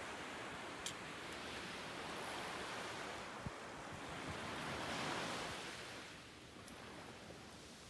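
Sea waves washing in on the shore. The noise swells to its loudest about five seconds in, then dies away.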